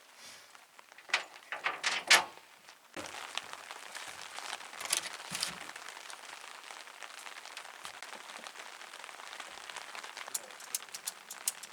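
Rain pattering in a steady hiss that starts abruptly about three seconds in. Before it come a few sharp knocks and clatters.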